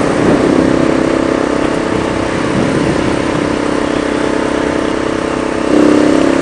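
Motorcycle engine running at a steady cruise, with wind rush over the microphone; it gets louder near the end as the throttle opens.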